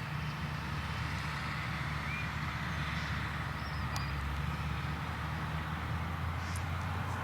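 Krone Big X 1100 forage harvester running under load as it chops triticale: a steady low engine drone under a constant hiss from the crop flow and chopping.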